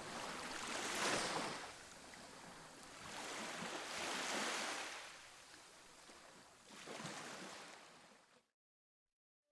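Faint washing water noise that swells and fades three times, about three seconds apart, then cuts off to silence shortly before the end.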